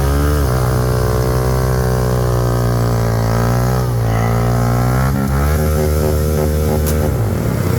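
An engine revved up and held at high revs, with its pitch dipping briefly a couple of times and dropping off near the end.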